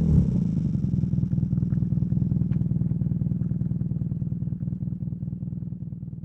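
BMW R nineT's air/oil-cooled boxer twin idling through a Competition Werkes slip-on exhaust, a steady, even pulse that slowly fades out.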